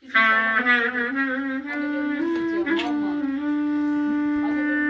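A wind instrument playing a Turkish folk melody. It starts with a wavering, ornamented line that steps up in pitch, then settles about three and a half seconds in on one long held note.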